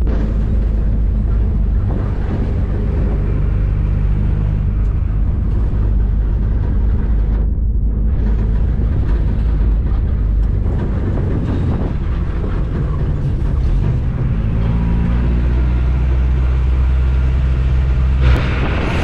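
An engine running steadily, giving a continuous low drone whose pitch drifts slightly, with rushing noise over it that cuts out for a moment about eight seconds in.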